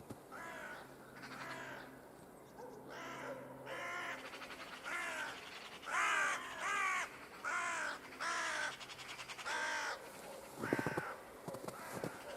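A crow cawing over and over, about ten harsh caws in a slow series, loudest a little past the middle. Near the end, footsteps crunch in snow.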